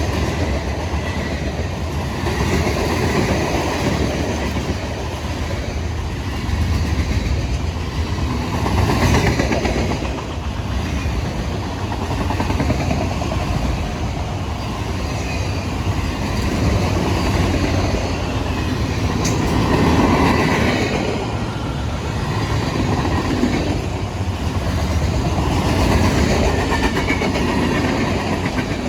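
CSX freight train cars rolling past on the rails, a steady wheel-and-rail clatter that swells and fades every few seconds.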